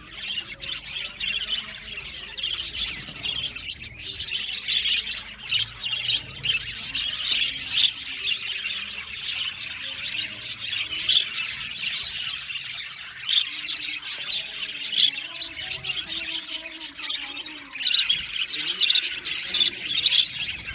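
A flock of budgerigars chattering, chirping and squawking together in a continuous, overlapping din.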